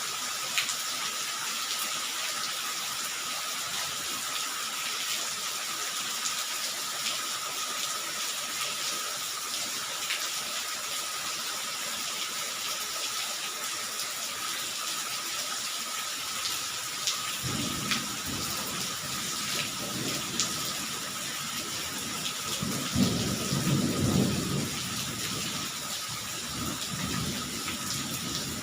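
Steady rain falling, an even hiss with scattered sharp drop ticks. From a little past halfway a low rumble builds, loudest about four-fifths of the way through, then fades.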